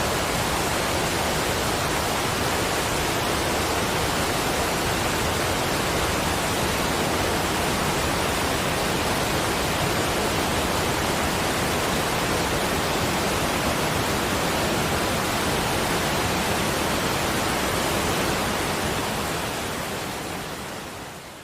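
Steady, even rushing noise with no separate events, fading out over the last few seconds.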